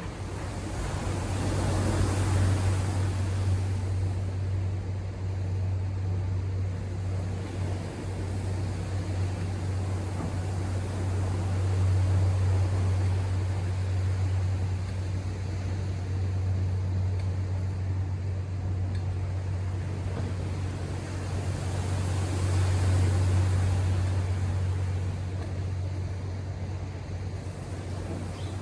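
Ocean surf washing in and out, with two larger waves breaking, one near the start and one near the end, over a steady low hum.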